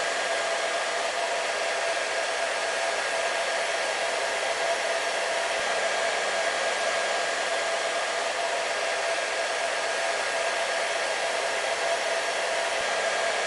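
Hair dryer running steadily: an even rush of blown air with a steady motor whine over it.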